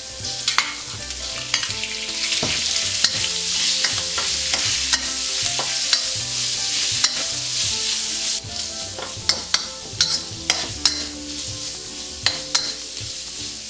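Shrimp sizzling in oil in a hot steel wok, stir-fried with a metal spatula that scrapes and clicks against the pan. The sizzle is louder for several seconds after the shrimp go in, then eases about eight seconds in.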